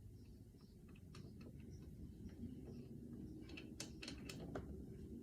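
Faint, irregular small clicks and ticks as the oil drain bolt of a Yamaha TTR 125 dirt bike is unscrewed by hand, with a quick run of them near the end.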